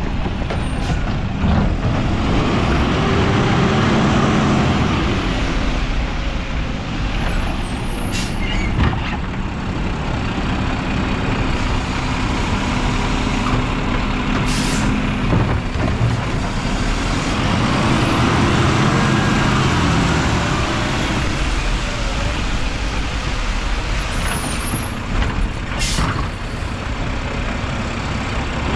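Mack LR garbage truck with a Labrie body running, its engine revving up and back down twice, about fifteen seconds apart. Short air-brake hisses come in between.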